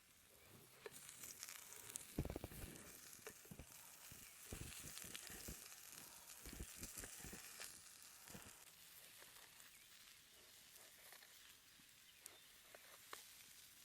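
Faint sizzling of eggplant and mushroom pieces searing on a hot stone, with a scattering of soft knocks and taps between about two and eight seconds in.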